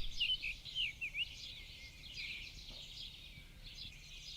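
Small birds chirping: a quick run of short up-and-down chirps in the first second or so, then fainter scattered calls.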